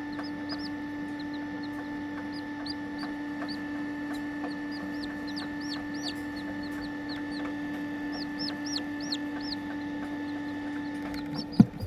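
Serama bantam chicks peeping: many short, high chirps, somewhat like small songbirds, over a steady hum. A single sharp knock near the end.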